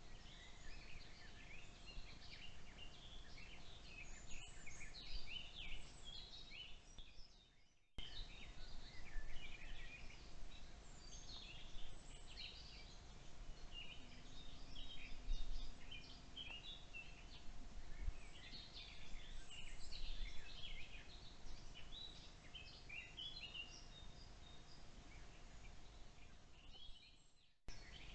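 Woodland birdsong: several birds chirping and trilling at once, over a faint steady hum and low rumble. The sound fades out and starts again twice, where one clip ends and the next begins.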